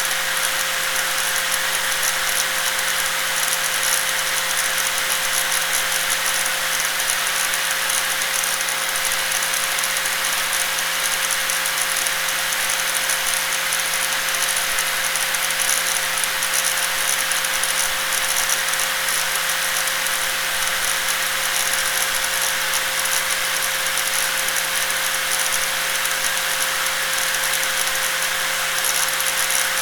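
Electric angle grinder running steadily, a constant high-pitched whine over a hiss that does not change.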